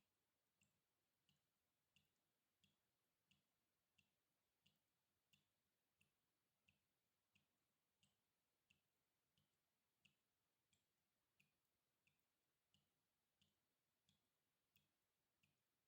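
Water dripping in a steady rhythm, very faint: single drops falling about three every two seconds, each a short ping with a soft low plop.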